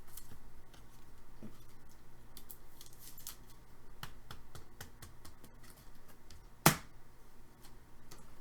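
Hockey trading cards and packs being handled at a table: scattered light clicks and taps, with one sharp, louder click about two-thirds of the way through.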